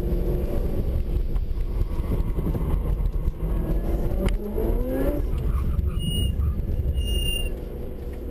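C6 Corvette's V8 engine heard from inside the cabin during an autocross run: a steady low rumble, with the revs rising and falling around the middle and the engine easing off near the end. Two short high-pitched tones sound about six and seven seconds in.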